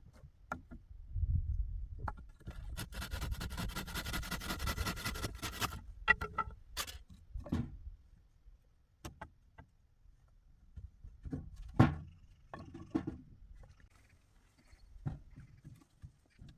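Irregular knocks and clatters of hard objects being handled, with a few seconds of scraping about three seconds in and one louder knock a little past the middle.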